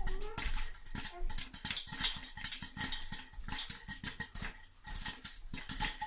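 Popcorn kernels popping in a pot on a stovetop: many sharp, irregular pops in quick succession.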